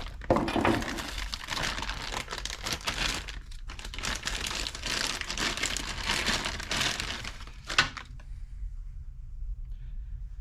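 Packaging crinkling and rustling as new stabilizer links are unwrapped, with a dense crackle of handled wrapping that ends with a click about eight seconds in.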